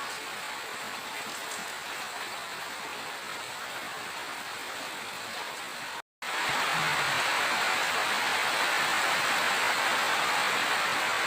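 Steady rain falling, an even hiss. About six seconds in it cuts out for a split second, then comes back louder and brighter.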